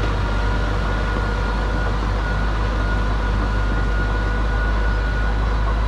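Diesel engine of heavy earthmoving machinery running steadily: a deep, unchanging drone with a thin steady whine above it.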